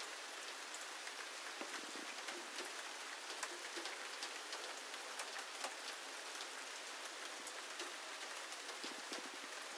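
Steady rain falling: an even hiss with many scattered sharp ticks of drops.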